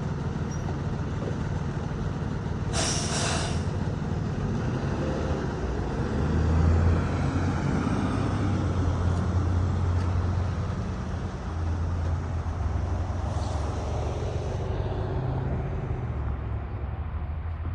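A vehicle's engine running with a steady low rumble. A short, sharp hiss comes about three seconds in, and a fainter one about thirteen seconds in.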